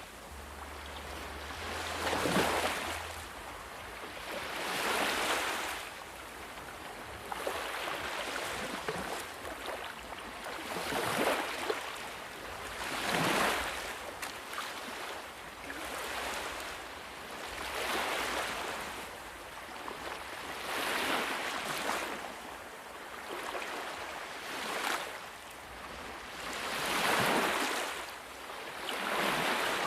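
Sea waves breaking and washing up on a shore, the surf swelling and falling away every two to three seconds.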